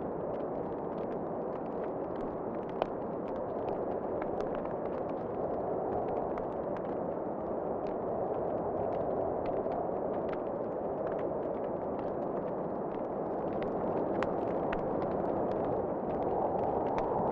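Crackling fireplace fire with scattered sharp pops, one louder pop about three seconds in, over a steady rushing wind that swells slightly near the end.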